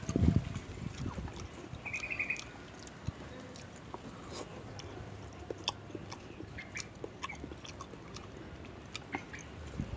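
Close-up chewing and mouth sounds of someone eating rujak fruit salad, with small wet clicks and smacks throughout and a louder chew right at the start. A short high chirping trill cuts in briefly about two seconds in.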